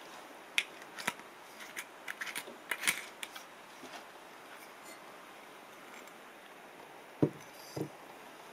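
Light clicks and clatters of objects being handled, then two dull thumps about half a second apart near the end.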